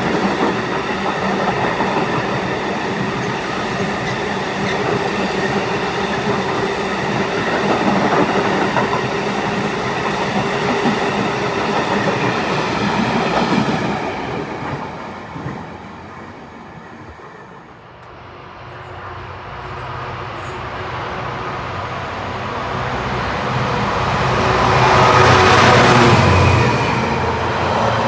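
A train passing on the railway, its noise fading away after about 14 seconds; then another train approaches with a low steady drone, loudest near the end.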